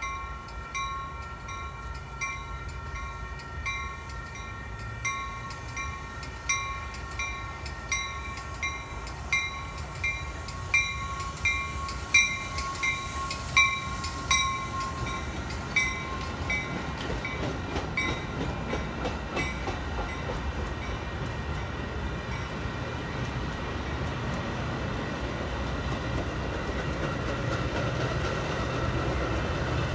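Metra commuter train passing on the rails, with a warning bell striking about every three-quarters of a second. The bell is loudest around the middle and dies out after about twenty seconds. As the cars roll by, a low rumble from the diesel locomotive at the rear grows louder toward the end.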